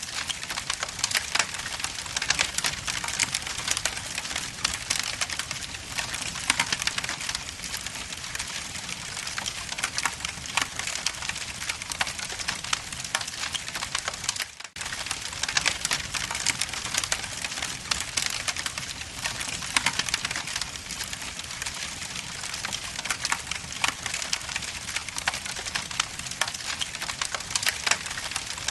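Log fire crackling in a fireplace: a dense stream of small crackles and sharper pops over a steady hiss. The sound cuts out for an instant about halfway through.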